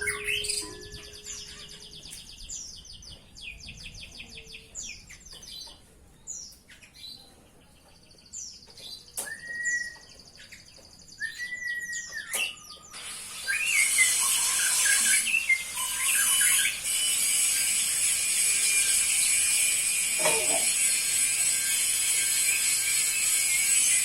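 White canary singing: rapid trilled rolls at first, then scattered chirps, and from a little past halfway a dense, continuous high warbling song.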